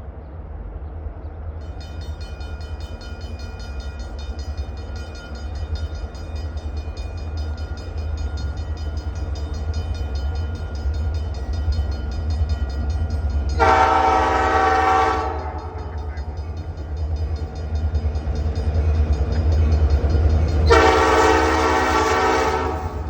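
EMD GP38-2 diesel locomotives approaching, a steady low engine rumble growing louder, with two long horn blasts: one about halfway in and one near the end. A bell rings from about two seconds in.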